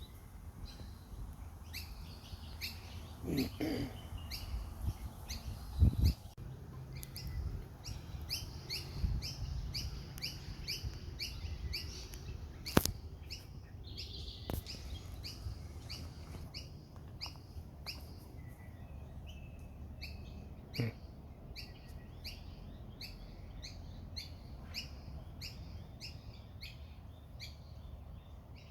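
Small birds chirping: many short, quick chirps repeated over and over. Under them is a low rumble, with a couple of thumps about six seconds in and a sharp click about thirteen seconds in.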